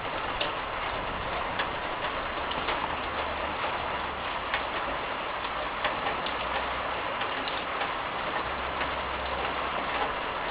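Steady hiss of falling rain, with irregular sharp clicks of single drops striking close by.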